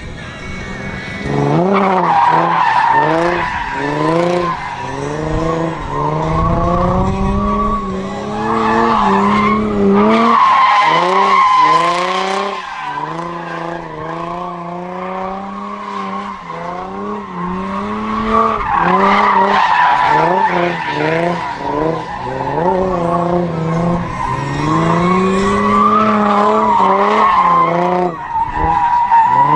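Drift car's engine revving up and falling back over and over as the car slides, over a steady high squeal from the tyres.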